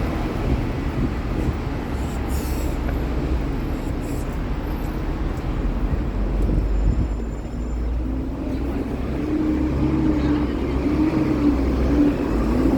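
Steady street traffic rumble of passing vehicles, with a wavering low engine-like tone in the last few seconds.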